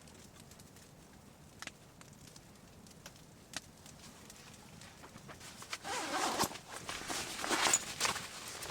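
Footsteps crunching in snow, starting about six seconds in and getting louder, after a quiet stretch broken by two faint clicks.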